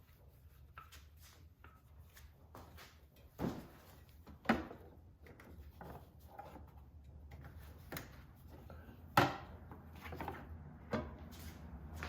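Scattered clicks and knocks of things being handled, with three louder knocks about three and a half, four and a half and nine seconds in, over a faint low hum.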